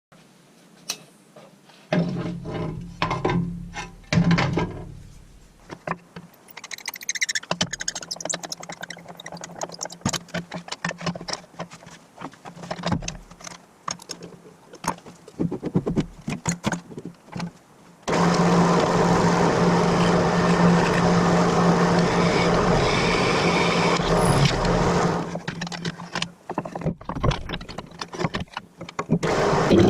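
Metal being handled and worked, with scattered clicks, knocks and scraping; about two-thirds of the way through a power tool starts and runs steadily.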